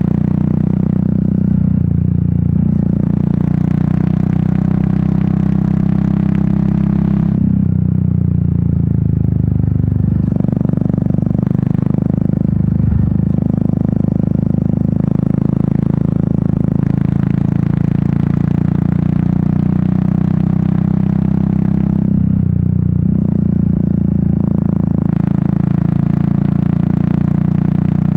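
Royal Enfield Meteor 350's single-cylinder engine and exhaust running steadily under way, mixed with wind noise. A brighter hiss on top fades and returns a few times.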